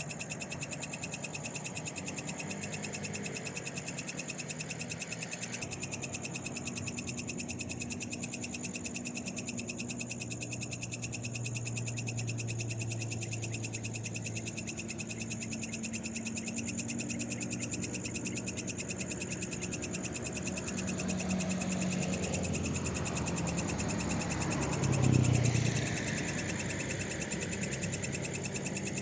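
A night chorus of frogs calling, over a steady high trilling of insects. About 25 seconds in, a loud swell rises and falls as a vehicle passes on the road.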